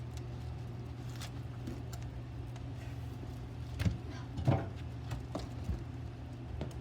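Firewood logs knocking as they are handled and loaded into a fire, two louder knocks about four and four and a half seconds in, over a steady low hum.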